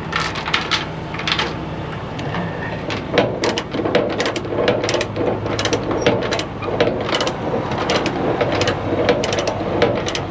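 Tow chain and ratchet binder clicking and clanking as the chain is pulled tight to take out the slack, over a steady low hum.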